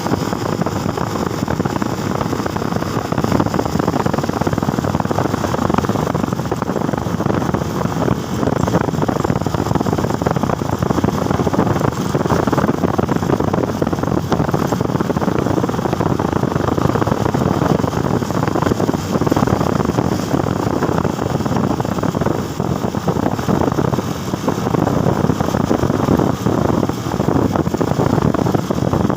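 Motorcycle riding noise: steady wind rush over the microphone mixed with engine and road noise at cruising speed, with no clear pitch changes.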